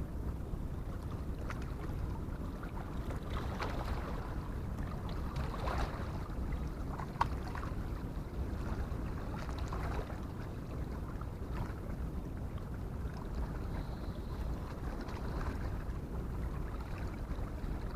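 Wind buffeting the microphone as a steady low rumble, with scattered faint ticks.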